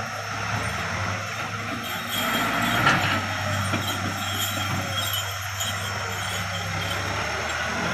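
Engine of heavy machinery running steadily, with a brief sharper knock about three seconds in.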